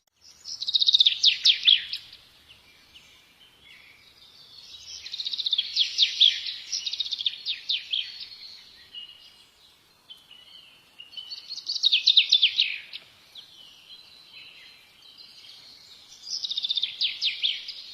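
A songbird singing four phrases of rapid, closely spaced notes, each one to three seconds long, with pauses of a few seconds between them.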